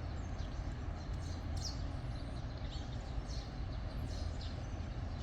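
Scattered faint, short, high chirps of small birds, each sliding downward, over a steady low outdoor rumble.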